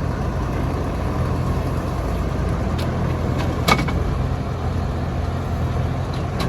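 Heavy diesel machinery engine running steadily, with a single sharp knock about halfway through.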